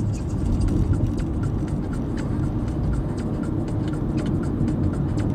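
Car driving, heard from inside the cabin: a steady low road and engine rumble, with light irregular clicking and ticking throughout.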